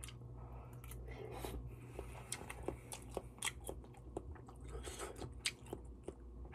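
A person chewing malatang close to the microphone: scattered soft clicks and wet mouth sounds over a low steady hum.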